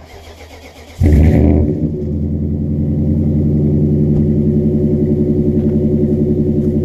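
2004 Nissan Titan's 5.6-litre V8 with Flowmaster double-chambered mufflers being started: the starter cranks for about a second, then the engine catches with a loud flare and settles into a steady, deep idle.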